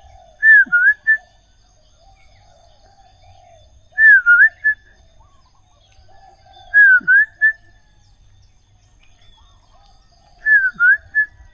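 A loud whistled phrase repeats four times, about every three and a half seconds: each time a glide down and back up in pitch, then two short notes. Soft chirping of other birds runs underneath.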